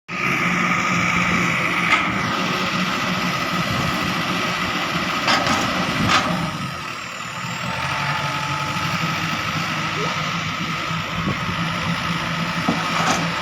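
Excavator's diesel engine running steadily, with a constant whine over its low drone and a few short knocks, about two, five and six seconds in; the machine is stuck in mud.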